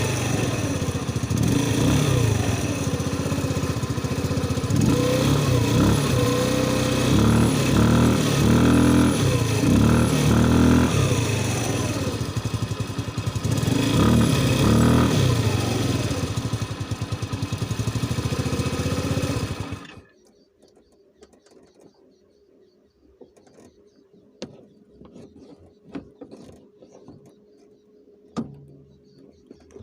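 Mustang's engine being revved again and again, its pitch rising and falling with each rev. It stops suddenly about two-thirds of the way through, leaving only faint ticks.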